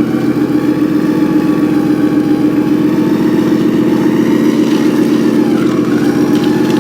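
A steady engine drone holding an even pitch throughout, with no revving.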